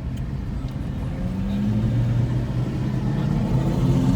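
A car engine running, with a steady low hum that comes in about a second in and grows slowly louder over a low rumble.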